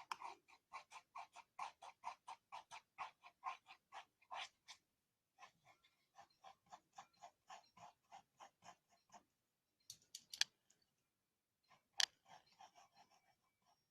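Pencil scratching on paper in quick back-and-forth shading strokes, about four or five a second, pausing briefly twice. There are a couple of sharp ticks in the second half.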